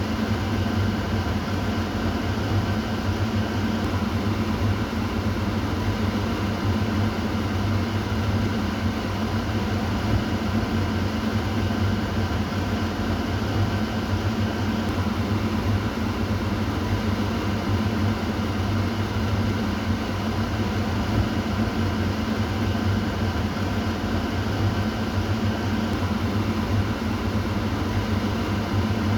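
Kitchen exhaust fan running steadily: an even whoosh of air over a low motor hum, without change.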